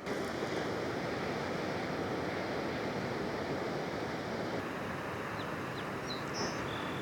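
Steady rush of ocean surf. A few faint high chirps come near the end.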